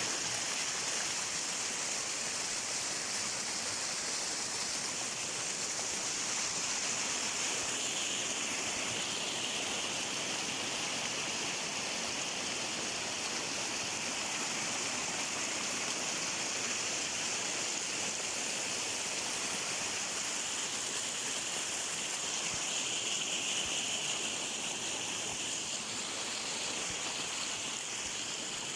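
Stream running with a steady rush of water.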